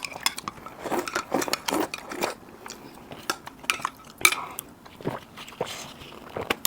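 Utensils clicking and clinking against dishes in a run of sharp, irregular knocks, the sharpest a little past four seconds in, with close-miked eating sounds.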